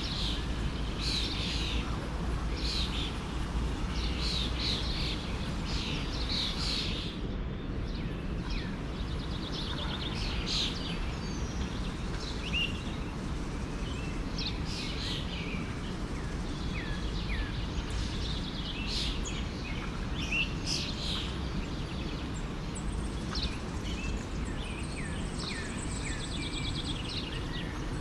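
Many small birds chirping and singing in short, overlapping calls over the steady rush of a forest stream.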